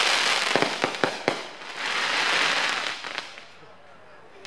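Aerial fireworks bursting overhead as a spray of gold sparks: dense crackling, a few sharp pops about a second in, then a second rush of crackle that dies away in the last second or so.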